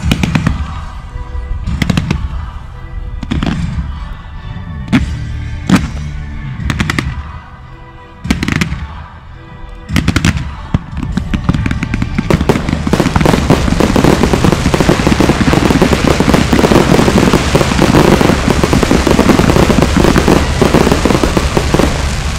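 Fireworks display: single shots and shell bursts about once a second for the first ten seconds, then from about ten seconds in a dense barrage of bursts and crackle.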